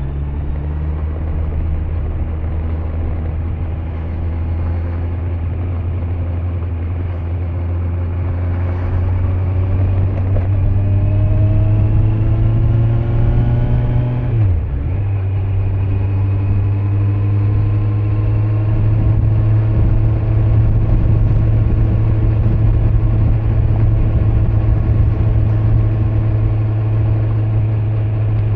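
Kawasaki Z900 inline-four engine on its stock exhaust, pulling under acceleration with its note climbing for about ten seconds. Then a sudden drop in pitch as at a gear change, after which it runs steadily and slowly rises again, over road and wind noise.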